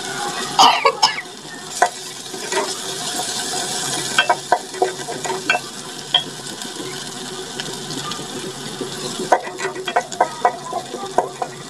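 Chopped green chillies sizzling in a little hot oil in a metal pot, with a wooden spoon scraping and knocking against the pot as they are stirred. The sizzle is steady, and the spoon's clicks come in clusters.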